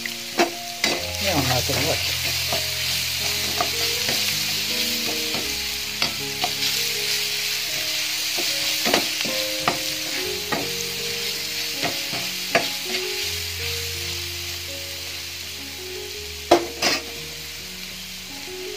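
Crushed garlic and dried red chillies sizzling in hot oil in a nonstick frying pan, with scattered scrapes and taps of a metal slotted spoon stirring them.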